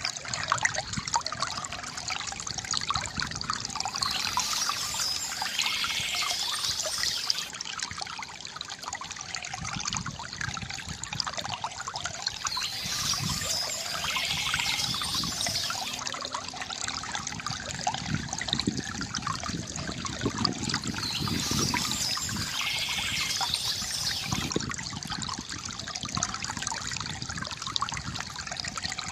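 Small stream flowing and trickling steadily over stones. A brighter, higher sound rises above the water three times, each for three or four seconds, about eight seconds apart.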